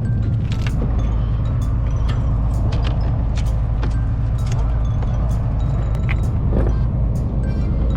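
A charter fishing boat's engine droning steadily, with scattered light clicks and knocks over it.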